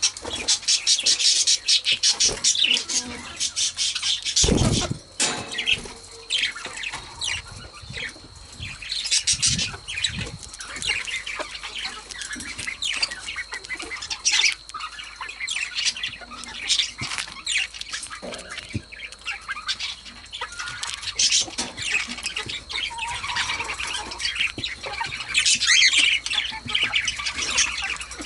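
Female budgerigars chirping and chattering in a steady stream of short, high calls, busiest near the start and again near the end. A single low thump sounds about four and a half seconds in.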